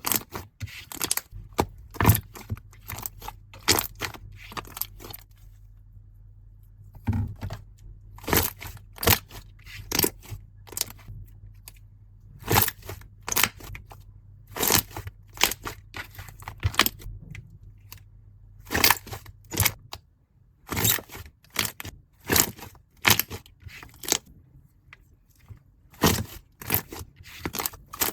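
Slime being squeezed, stretched and poked by hand, giving an irregular series of sharp, sticky pops and crackles, a few each second with short pauses.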